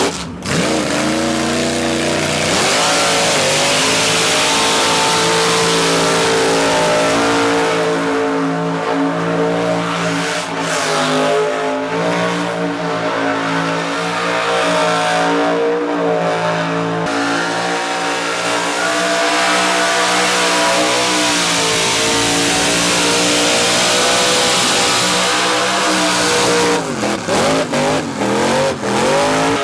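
Truck engine held at high revs in a burnout, its spinning tyres hissing underneath. The revs dip and climb again about a second in, and waver up and down near the end.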